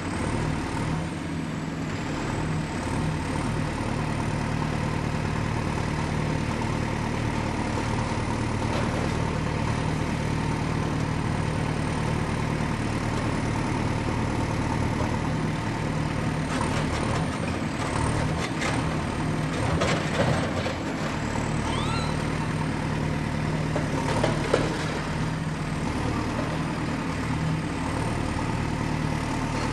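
Diesel excavator engine running steadily. A cluster of metallic clanks and scrapes comes about two-thirds of the way in, and a single sharp knock follows a few seconds later.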